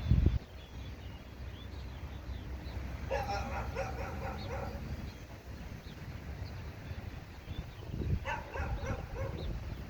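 Animal calls: two runs of quick, yelping cries, one about three seconds in and one about eight seconds in, with scattered short chirps, over a steady low rumble.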